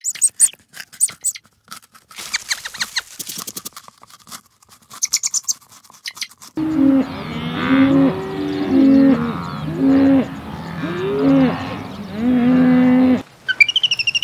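A rabbit chewing food in quick, crisp crunching clicks. Then, from about six and a half seconds in, cattle mooing repeatedly in loud, overlapping calls that stop abruptly near the end.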